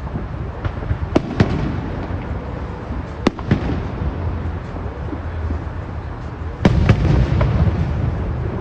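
Aerial fireworks bursting: a series of sharp bangs over a continuous low rumble of echoing reports, with the heaviest burst about three quarters of the way through.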